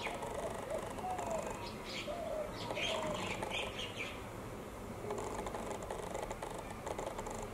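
Birds calling: clusters of quick, high chirps and a few lower, arching calls over faint background noise.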